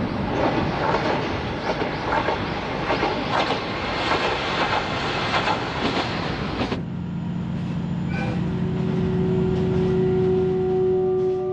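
A diesel railcar running along the track, its wheels clicking over the rail joints. About seven seconds in it cuts to the steady low drone heard inside the moving carriage.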